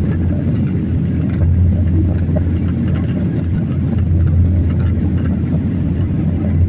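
Steady low rumble of an airliner's engines and rushing air heard inside the passenger cabin.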